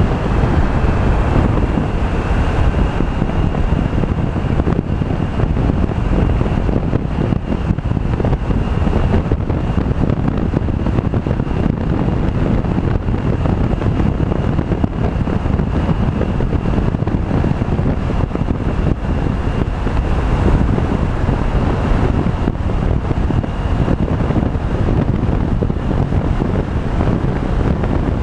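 Wind buffeting the microphone over the steady running noise of a Honda PCX 125 scooter's engine and tyres while riding, with a faint steady high whine throughout.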